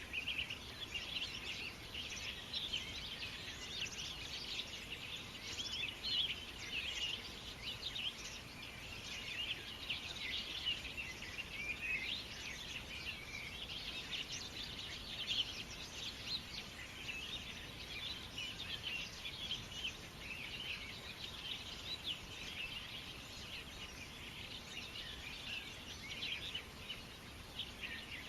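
Many small birds chirping at once in a dense, continuous chorus of short high chirps.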